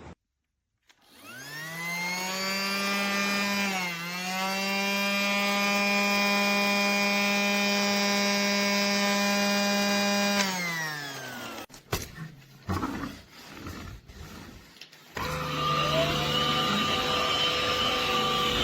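A small electric motor, most likely the Casdon Dyson toy vacuum's, whines up to speed, runs at a steady pitch for several seconds, then winds down. A few knocks and clatter follow, then a second steady motor hum starts near the end.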